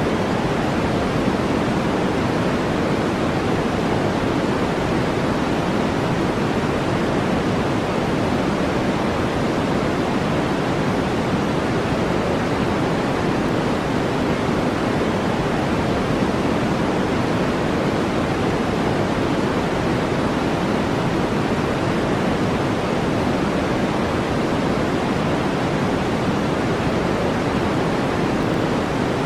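Steady brown noise: an even, deep rushing hiss that does not change.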